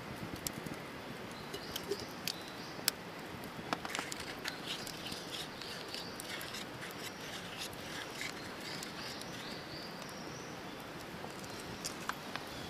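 Wood campfire crackling, with sharp irregular pops over a steady hiss, and short high-pitched chirps through the middle.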